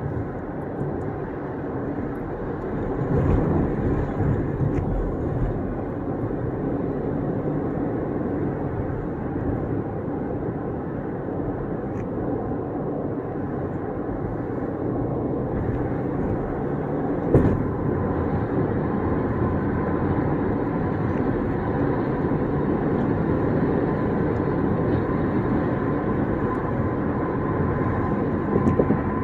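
Steady road and tyre noise of a car driving at highway speed, heard from inside the cabin, with a single thump about two-thirds of the way through.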